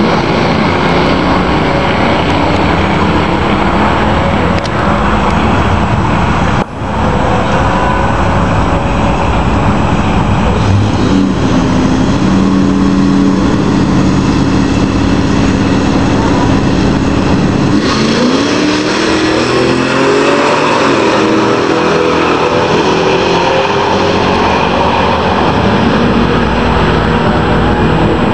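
1999 Ford SVT Lightning pickup's supercharged 5.4-litre V8, fitted with a 4 lb lower supercharger pulley, running steadily, then accelerating hard from about 18 seconds in, its note climbing in repeated rising sweeps.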